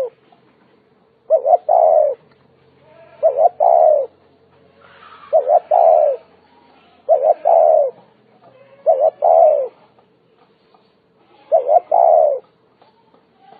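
Spotted dove cooing. It repeats the same phrase about every two seconds, each one two short notes and then a longer, falling coo.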